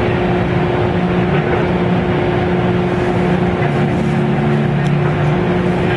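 Electric train on the Mito Line running, heard from on board: a steady rumble of wheels on rail with a constant motor hum and lower droning tones that shift slightly partway through.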